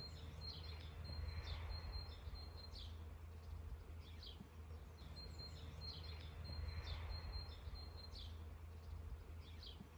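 Birds chirping and calling, with a short run of high notes heard twice, over a steady low rumble.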